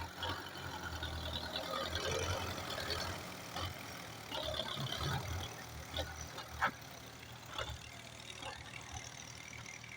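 Belarus 510.1 tractor's diesel engine running under load, louder in the first half and fading after about five seconds, with a few sharp knocks near the middle.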